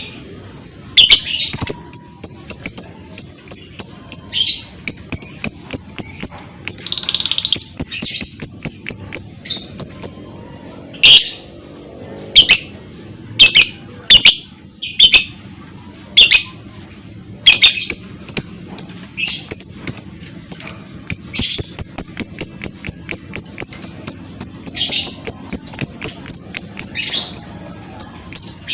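Lovebird chattering in long runs of rapid, high-pitched repeated notes (the 'ngekek' trill), broken up by loud, harsh single shrieks.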